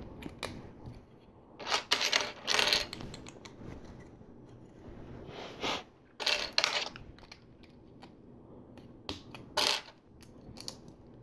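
Plastic LEGO pieces clicking and clattering as they are handled and fitted, in a few short clusters of clicks with quieter stretches between.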